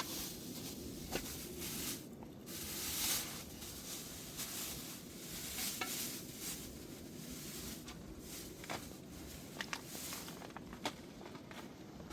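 Food sizzling in a pan while it is stirred, a steady hiss with scattered light clicks and knocks.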